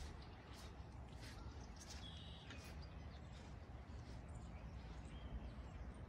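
Faint outdoor ambience: a steady low rumble with a few short, high bird chirps, the clearest about two seconds in.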